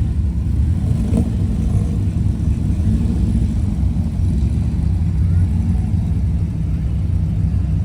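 A car engine running close by with a steady low rumble, as a car idles or pulls slowly away.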